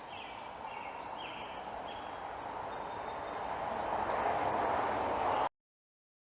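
Birds chirping in short, repeated high calls over a steady outdoor background hiss, cutting off abruptly near the end.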